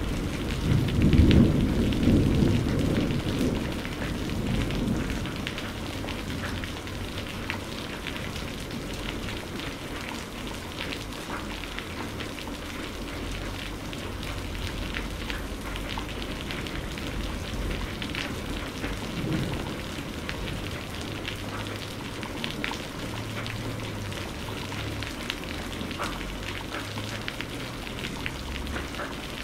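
Steady rain pattering down, with a roll of thunder rumbling in the first few seconds and dying away by about five seconds in.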